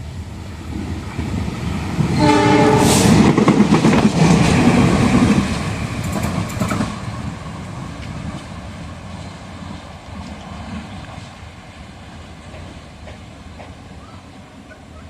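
CC 206 diesel-electric locomotive running light: a short horn blast about two seconds in as it passes close by with wheel and engine noise, which then fades as it moves away.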